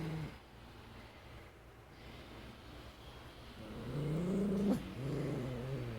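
Dog growling low and long, coming in about three and a half seconds in and holding steady; a frightened growl at a shadow it is scared of.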